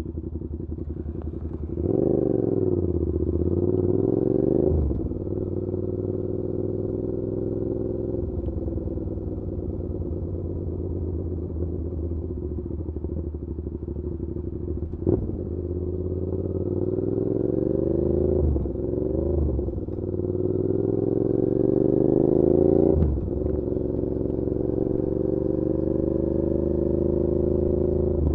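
Suzuki SV650's V-twin engine through an SC Project aftermarket exhaust, heard from the rider's backpack while riding. It pulls up in pitch under throttle about 2 s in, again near the middle and near the end, and drops off sharply between the pulls as the throttle closes or a gear is shifted. There is one sharp click near the middle.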